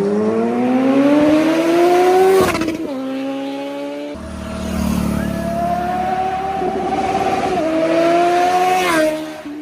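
Superbike engine revved hard through a loud aftermarket exhaust: the revs climb for about two seconds and drop, then are held high and steady for several seconds before falling off near the end.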